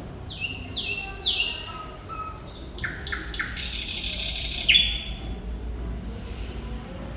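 Thrush nightingale in full song: three quick falling whistles and a few lower notes, then a run of sharp clicks leading into a loud, harsh rattle, ended by a single falling whistle about five seconds in. A steady low hum runs underneath.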